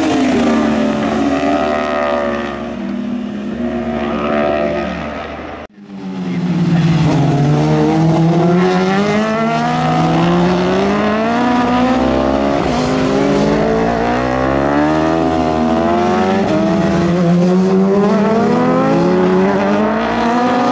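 Superbike racing motorcycle engine at high revs, its pitch dropping and climbing again over and over as it slows and accelerates through gears. The sound cuts out abruptly for a moment about six seconds in, then resumes.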